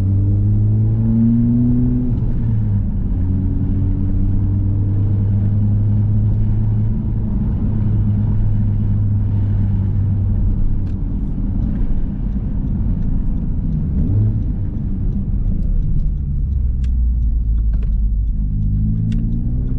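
Exhaust note of a Honda Civic Type R's turbocharged four-cylinder with the muffler and resonator deleted, under way on the road: the pitch climbs as it accelerates at the start, holds a steady low drone while cruising, drops as it eases off near the end, then climbs again.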